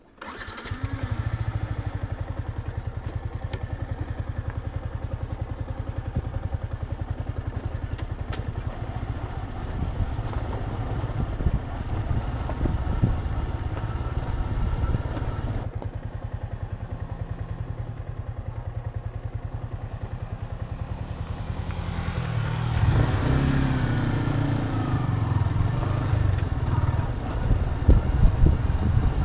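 Yamaha MT-15's single-cylinder engine running as the motorcycle is ridden. Its note gets louder and climbs about 22 seconds in.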